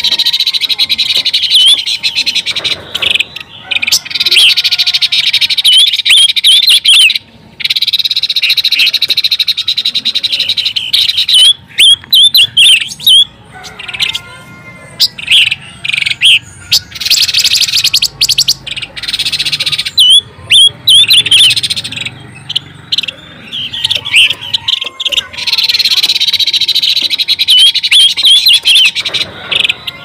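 Pancawarna bird calls played as a lure track: dense, rapid high-pitched chirping and chattering in phrases of several seconds, broken by short gaps.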